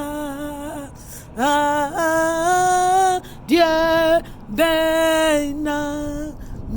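A single voice singing unaccompanied, holding long notes and sliding up into them, in four short phrases with brief breaths between.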